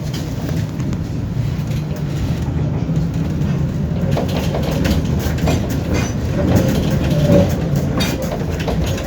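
Tram running along the track: a steady low rumble that slowly grows louder, with the wheels clacking over rail joints from about halfway through.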